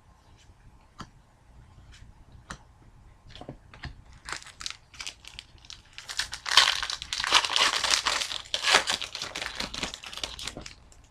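Trading cards handled with a few light clicks and taps, then, about six seconds in, a card pack's wrapper crinkling and tearing for several seconds as it is opened.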